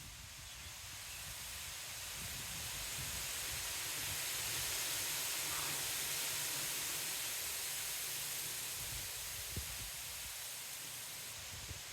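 Wind gusting: a rushing hiss that swells to its strongest about five seconds in and then eases off, with a low rumble of wind buffeting the microphone.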